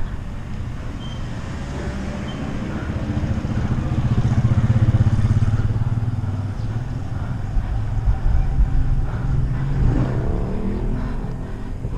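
A motor vehicle's engine passing on the road, a low hum that grows to its loudest about five seconds in and then fades.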